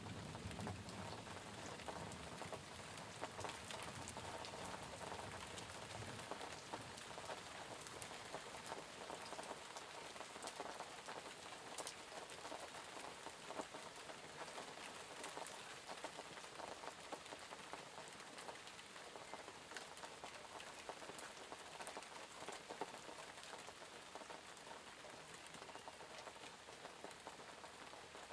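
Steady rain falling, with scattered individual drops ticking close by. A low rumble fades out over the first few seconds.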